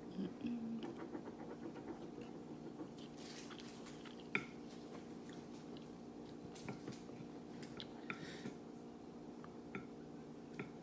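Close-miked chewing and eating: wet mouth clicks and smacks, a sharp click about four seconds in, and short slurp-like hisses around three and eight seconds. A steady low hum runs underneath.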